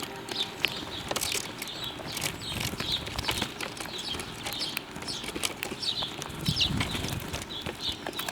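Birds at a feeding spot chirping in many short, high calls, with flutters of wings and scattered sharp clicks.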